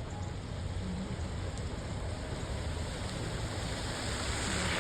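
Heavy rain pounding on a moving car, as a steady hiss over low road and engine rumble. The rain hiss grows louder near the end.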